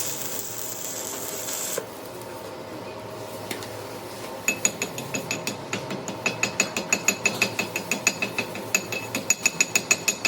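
A hiss that cuts off abruptly about two seconds in, then a fast run of light metal-on-metal taps, about five a second, each with a high ringing note, from about four seconds on.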